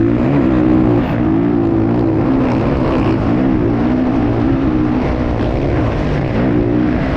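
Motocross bike engine running hard, its pitch rising and falling again and again as the throttle is worked and the gears change.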